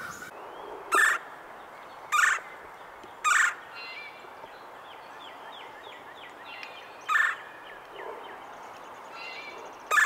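Red-bellied woodpecker giving short, loud rolling "chur" calls: three about a second apart, then two more after a longer gap. Fainter quick notes run between them.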